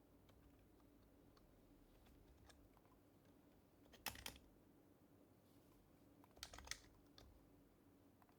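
Sparse typing on an HHKB Professional Hybrid Type-S keyboard with silenced Topre switches: two short bursts of keystrokes, about four seconds and six and a half seconds in, with a few faint single taps between, over quiet room tone.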